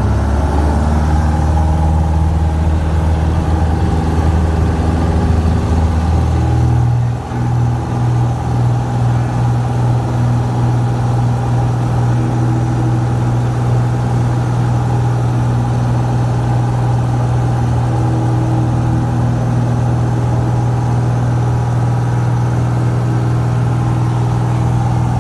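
Cessna 172's piston engine and propeller running steadily during landing. About seven seconds in, the engine note dips briefly and then holds at a different steady pitch.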